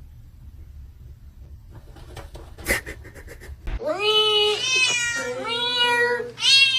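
Domestic cat meowing: a string of about four long, loud, drawn-out meows, starting about four seconds in, after a few faint clicks over a low hum.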